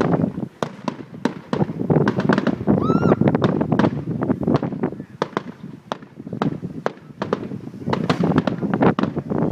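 Fireworks show going off: many sharp bangs and crackles in quick irregular succession, with a brief rising whistle about three seconds in.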